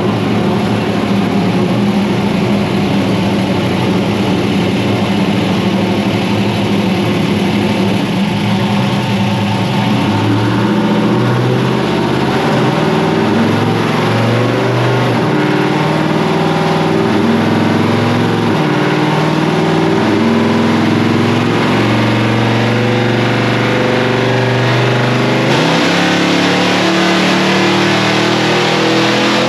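V8 engine of a 1961 Ford gasser truck running on chassis dyno rollers. It holds a steady speed at first, then from about ten seconds in it varies up and down. It is being run to burn leftover E85 out of the carburetor bowls on fresh 93-octane gas.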